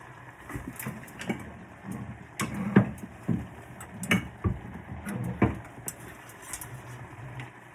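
Irregular knocks and clinks of cookware and utensils being handled, a dozen or so sharp taps at uneven spacing, the loudest a few seconds in.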